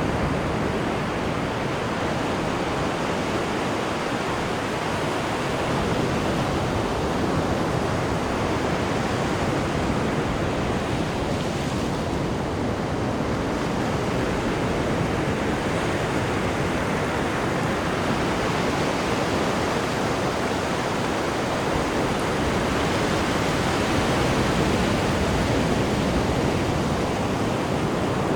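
Cruise ship's wake churning off the stern: a steady rushing wash of water that swells and eases slowly.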